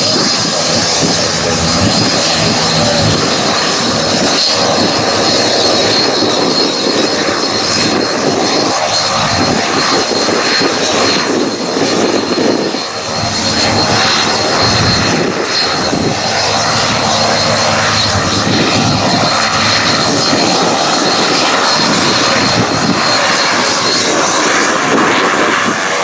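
Jet airliner engines running loud and steady, a dense rushing roar with a thin high whine held over it; the whine edges slightly higher near the end.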